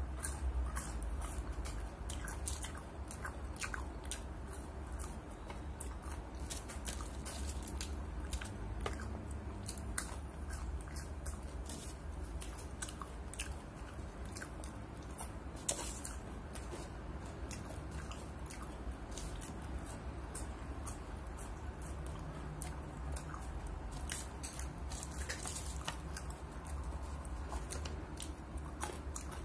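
Close-up chewing and biting of French fries, with many small mouth clicks and soft crunches scattered throughout. A steady low hum sits underneath.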